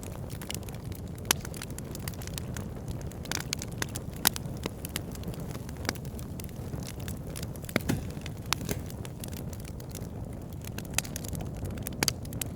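Campfire burning with irregular sharp pops and crackles of burning wood over a steady low rush of flame.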